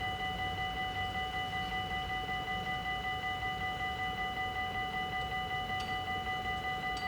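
Dutch level-crossing warning bell ringing in rapid, even strokes, about three a second, with a steady metallic ring.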